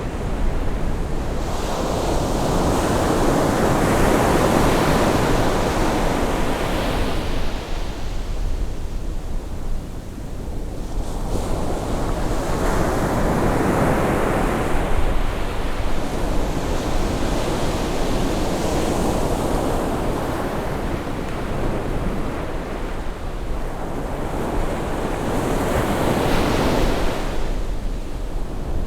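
Ocean waves breaking and washing on the shore on a rising tide, swelling in surges every several seconds, with a steady low rumble of wind on the microphone.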